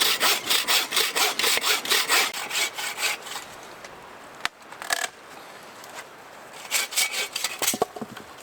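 Hand saw cutting through a wooden pole in quick back-and-forth strokes, about four a second, trimming the excess length off a ridge pole. The sawing stops about three seconds in, with a brief spell of strokes again near the end.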